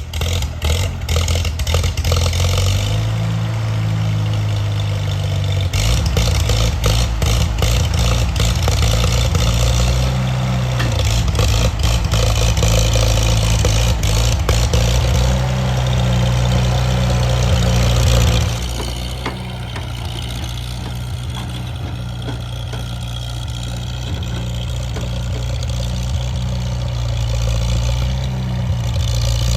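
Tractor engine starting and running, its speed going up and down several times, then settling to a quieter, steadier run about 18 seconds in.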